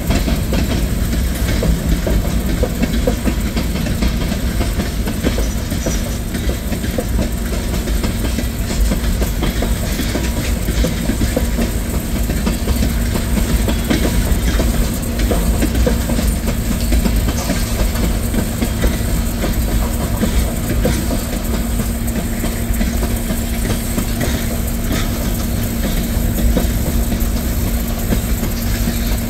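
Norfolk Southern manifest freight train's tank cars and covered hoppers rolling past: a loud, steady rumble of steel wheels on rail with clickety-clack over the rail joints. A steady low tone joins the rumble about six seconds in.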